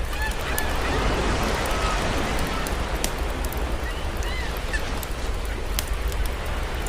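Campfire crackling, with a few sharp pops, over a steady wash of sea surf. Short bird calls come in at the start and again a little past halfway.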